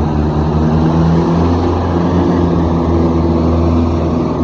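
Mahindra diesel tractor engine running steadily under heavy load, pulling a fully loaded sugarcane trolley.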